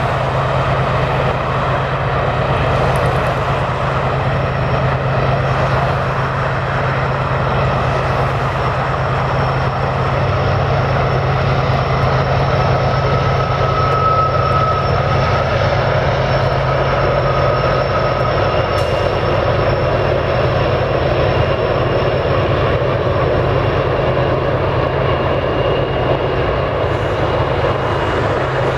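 Freight train passing: the steady drone of diesel locomotives and the rolling of double-stack container cars, with a faint high whine coming and going over it.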